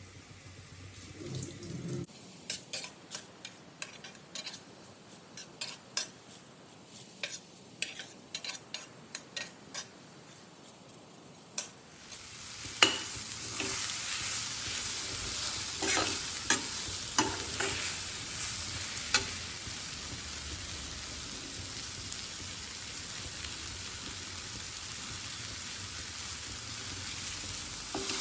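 A metal utensil clicking and tapping against a pan, then, about twelve seconds in, a sudden rush of sizzling as food goes into hot oil. The oil keeps frying steadily with spatula taps and stirring over it.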